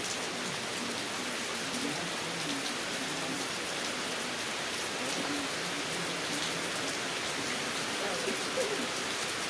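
Heavy rain falling steadily, with faint voices talking in the background now and then.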